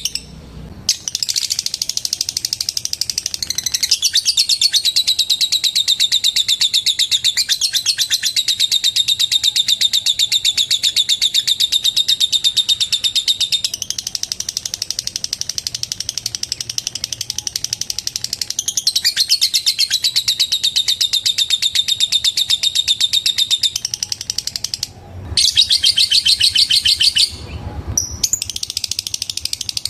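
Lovebird giving a long, continuous ngekek: a fast, unbroken run of high ticking chatter that goes on for many seconds at a time. It breaks off briefly near the start and twice near the end.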